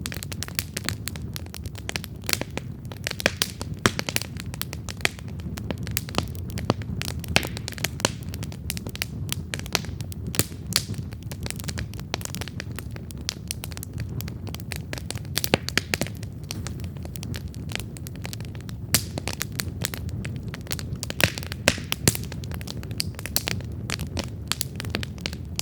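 Wood campfire crackling, with frequent sharp irregular snaps and pops over a steady low rumble of burning.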